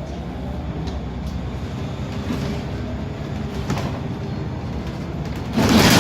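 Interior noise of a Scania L94UB Wright Solar single-deck bus on the move: steady engine and road rumble, with a loud, short rushing burst near the end.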